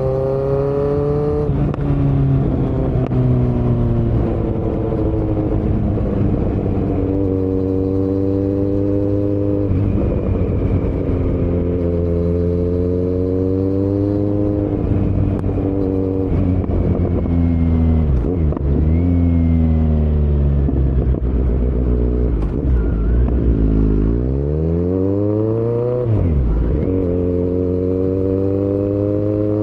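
Kawasaki Z900's inline-four engine running loud through a Yoshimura muffler and Delkevic headers with no dB killer, revving up through the gears and backing off again and again. About three quarters of the way through, the revs fall away sharply and then climb back up.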